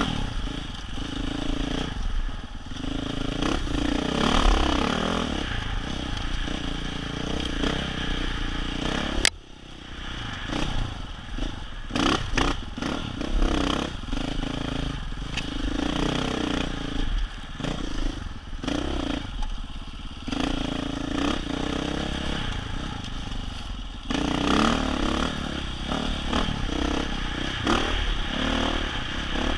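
Dirt bike engine revving up and down as it is ridden along a rough trail, with rattling and clattering over the ground. About nine seconds in there is a sharp click and the sound drops off abruptly for a moment before the engine picks up again.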